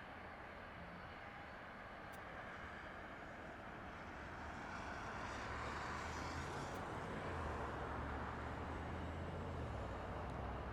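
Jet airliner engines heard at a distance, a steady rumble that slowly grows louder, with a low hum coming in about halfway through.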